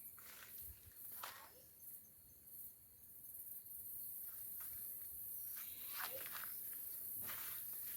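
Insects, cricket-like, keep up a steady high-pitched chirring throughout. Several footsteps or rustles in leaf litter come in, one just after a second in and a few more in the second half.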